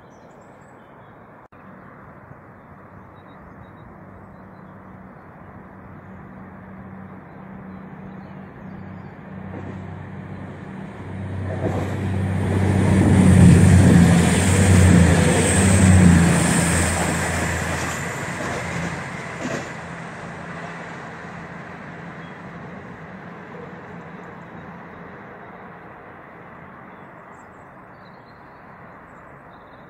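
A diesel train passes directly beneath. Its engine hum and the wheel and rail noise build slowly, are loudest about halfway through, then fade as it draws away.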